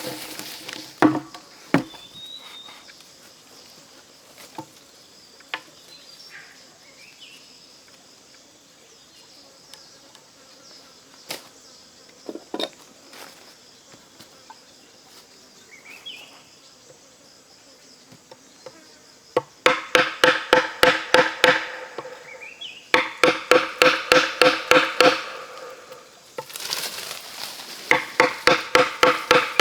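An insect calling in three bursts of rapid, even pulses, about eight a second, each burst lasting a few seconds, over the last third. Before the bursts there are a few scattered knocks and faint chirps.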